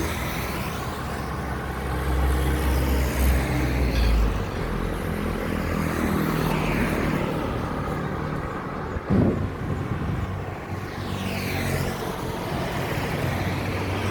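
Steady motor-vehicle rumble with traffic-like noise, and a single sharp knock about nine seconds in.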